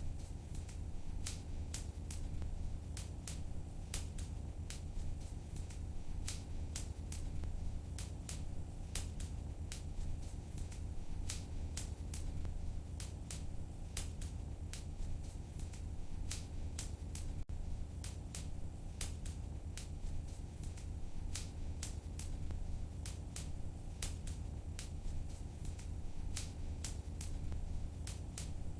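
A wood fire in a fireplace crackling: frequent sharp, irregular pops and snaps over a steady low rumble.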